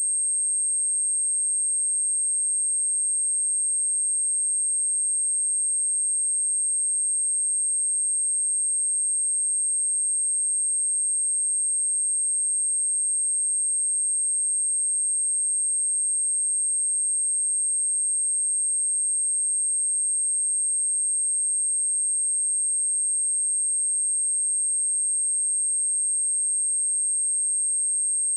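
A steady, high-pitched pure sine tone at 8451 Hz, held unchanged throughout: a speaker test and cleaning tone.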